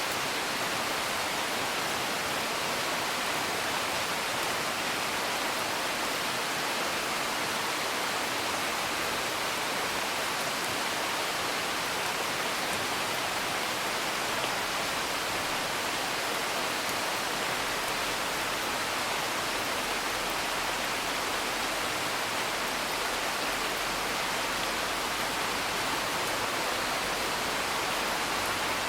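Steady rain hiss heard from indoors, with occasional faint crackles from a wood fire.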